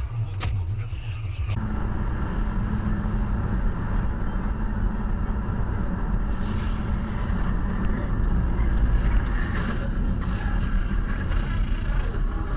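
A moving car's steady engine and road noise as a dashcam microphone picks it up, a low even rumble. A brief different segment with a couple of clicks cuts off about a second and a half in.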